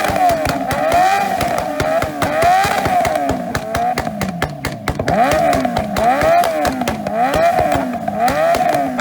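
Several motorcycle engines revved up and down over and over, about once a second, bouncing off the rev limiter with a rapid crackle.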